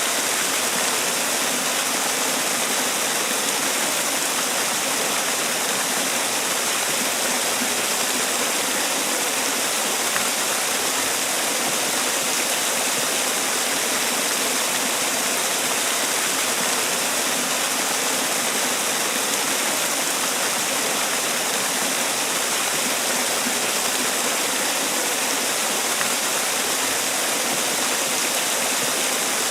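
Man-made waterfall: water pouring and splashing steadily, an even rushing noise with no breaks.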